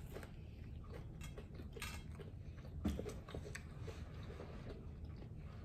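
People biting into and chewing tacos, with small wet mouth clicks. One sharper click stands out about three seconds in.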